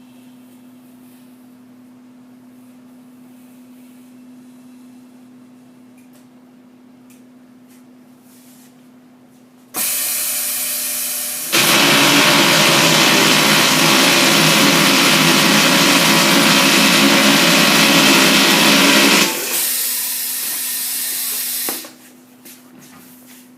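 Truck tire sidewall remover machine (TTSR5-1) working a steel radial truck tire: a steady low hum, then a sudden loud, noisy machine run that gets louder and heavier a couple of seconds later, eases off and stops near the end.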